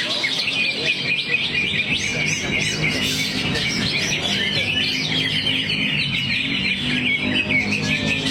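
Greater green leafbird (cucak hijau) singing a continuous, rapid stream of chirps and varied phrases, running through its song material.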